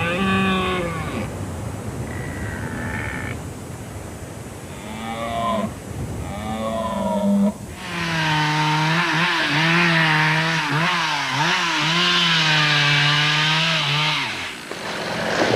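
Red deer stags roaring in the rut: a few short calls, then from about eight seconds in one long roar of about six seconds, wavering in pitch.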